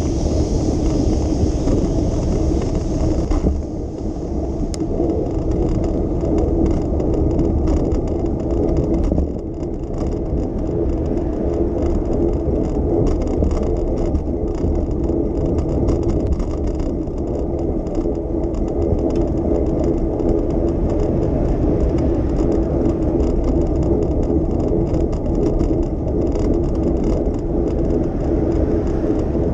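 A bicycle rolling along city streets: a steady rumble and whir of tyres on the road with light rattling, mixed with the hum of city traffic.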